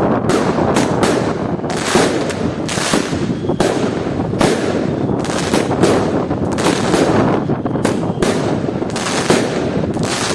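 A 20-shot firework cake (Golden Sky Explosion) firing in quick succession: sharp bangs and bursts, about one or two a second, overlapping over a continuous rumbling noise.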